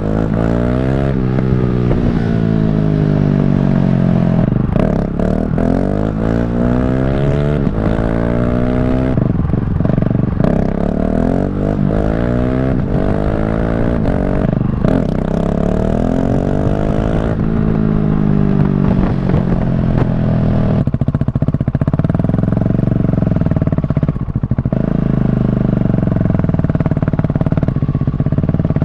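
KTM 690 SMC R supermoto's single-cylinder engine accelerating hard up through the gears, its pitch climbing and dropping back at each shift several times. In the last ten seconds or so it holds a steadier pitch that gently rises and falls.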